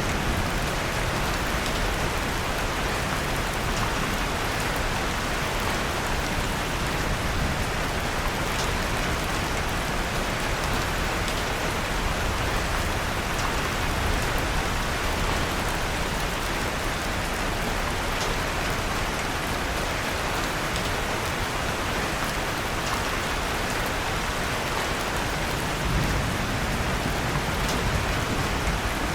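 Steady rain falling, mixed with a wood fire in a fireplace giving occasional faint crackles.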